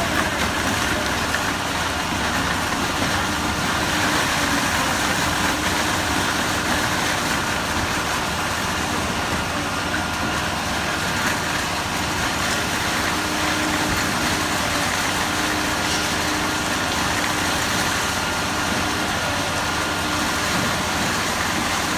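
Concrete pump truck's diesel engine running steadily, a constant mechanical drone with a steady hum throughout.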